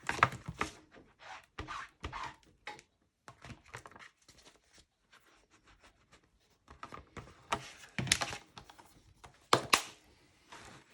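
Light knocks, clicks and rubbing of craft tools on a tabletop as a rubber stamp is cleaned and handled, with two louder knocks near the end.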